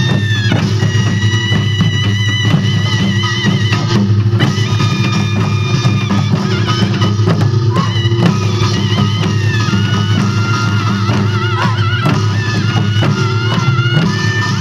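Korean traditional music accompanying a Jindo drum dance: drums beaten in a dense, continuous rhythm under a high, wavering melody line.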